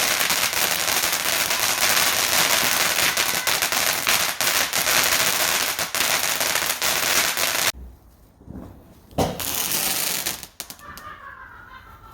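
Garden firework going off: a dense run of crackling and rapid pops that cuts off suddenly about eight seconds in. A second, shorter burst of crackle follows about a second later.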